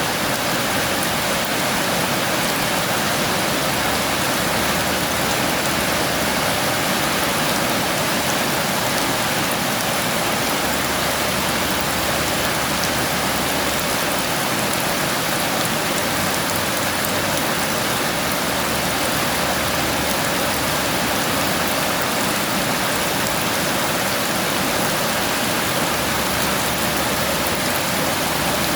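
Heavy rain falling and pattering on surfaces, steady and unbroken.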